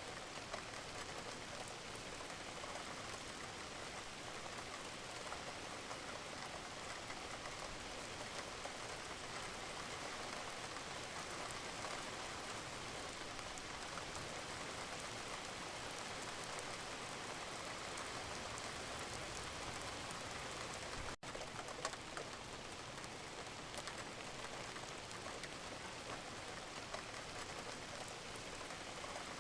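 Steady rain falling, an even hiss of drops with scattered sharper drop ticks, broken by a momentary dropout about two-thirds of the way through.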